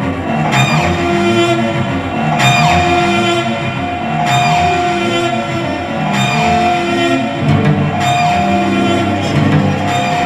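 Music led by a cello, held notes over a pulsing accompaniment with a sharp accent recurring about every two seconds.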